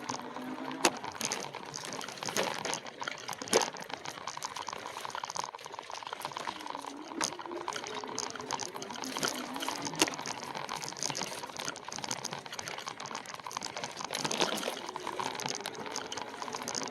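E-bike riding along a dirt trail: steady rolling noise from the tyres, with a few sharp knocks as it goes over bumps.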